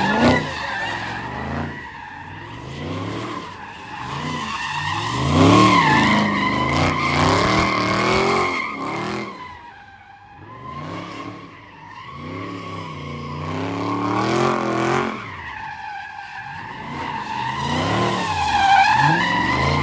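A car's tires squealing steadily as it spins through donuts, its engine revving up and down over and over. The squeal drops away briefly twice, about halfway through and again a few seconds later.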